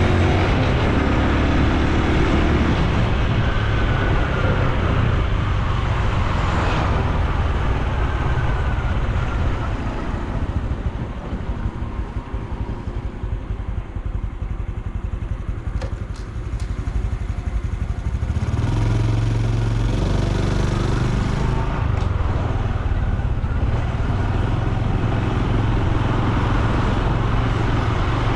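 Honda Super Cub C125's single-cylinder four-stroke engine and exhaust running while riding, with wind rushing past. The engine note falls to a quieter, lower level for several seconds midway, then picks up again near the end.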